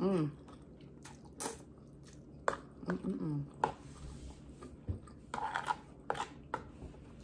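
A person slurping and chewing ramen noodles close to the microphone, with wet mouth clicks and smacks throughout. Two brief hums come at the start and again about three seconds in.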